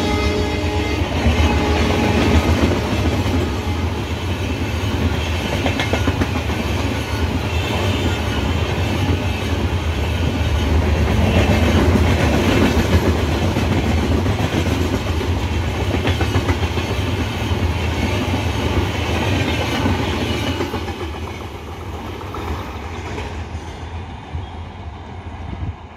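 Indian Railways express passenger train's LHB coaches passing close by at speed: a steady loud wheel rumble with clickety-clack over the rail joints. A horn note fades out in the first couple of seconds, and the rumble dies away from about 21 s as the last coach draws off.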